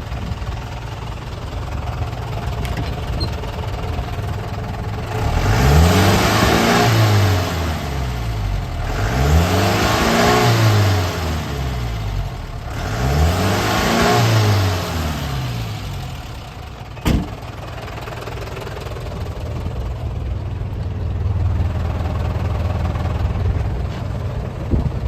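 Toyota Dyna truck's 14B four-cylinder diesel engine idling, then revved three times in a row, each rev rising and falling back, before settling to idle again. A single sharp click sounds during the later idle.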